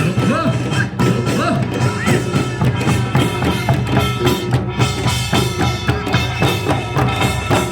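Korean folk music performance: drums and other percussion play a steady, dense rhythm, with a few rising and falling pitched notes above it.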